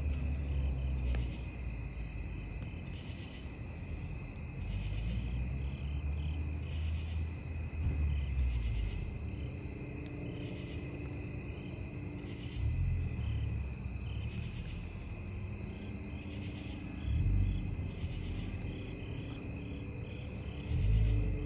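Crickets chirping steadily in a continuous, regularly pulsing chorus, over the low rumble of a burning campfire that swells up every few seconds.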